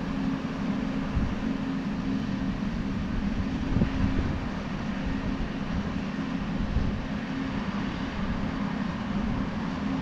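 A steady mechanical hum: a constant low drone over an even noise, unchanging throughout.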